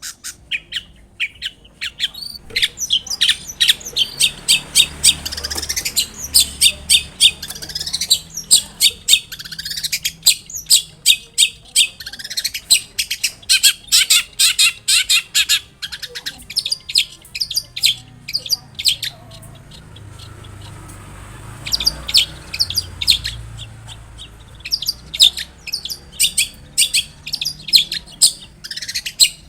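Long-tailed shrike (cendet) singing: long, rapid runs of short, sharp high notes, several a second, with a brief lull about two-thirds of the way through before the song picks up again.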